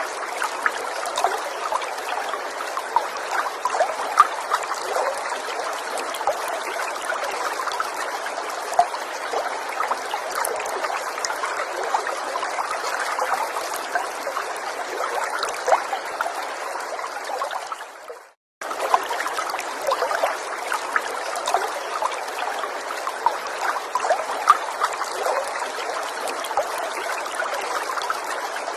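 Gentle stream of water trickling steadily, with many small splashing ticks. About two-thirds of the way through, the sound fades briefly to silence and cuts straight back in.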